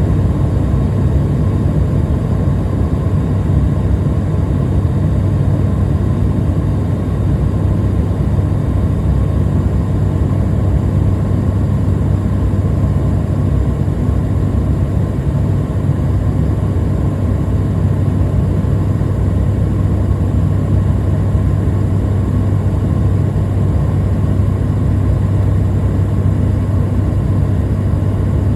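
Steady cabin noise of an airliner in cruise: a constant low drone of engines and airflow, with a faint high whine on top.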